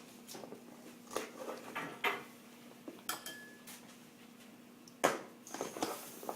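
Kitchen utensils clinking and knocking against dishes as salad is served into a bowl: scattered sharp knocks about once a second, then a quick cluster of clinks near the end.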